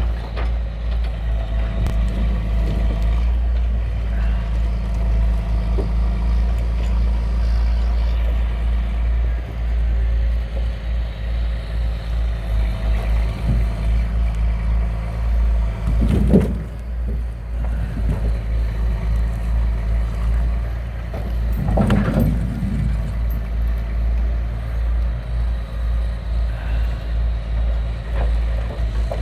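Truck engine running steadily with a low, pulsing rumble. Two brief louder sounds rise over it, about halfway through and again several seconds later.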